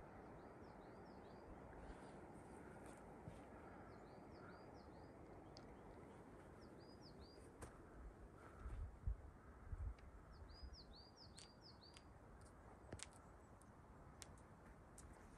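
Faint outdoor background hiss with a small bird calling: short high chirps in quick groups of three or four, repeated several times. A few low thumps come about halfway through, and faint clicks are scattered throughout.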